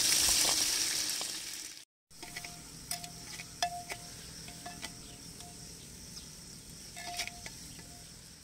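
Tomatoes hitting hot ghee and fried onions in a clay handi, sizzling loudly for about two seconds. After a cut, a quieter sizzle while a ladle is stirred in the pot, clicking and scraping against the clay now and then.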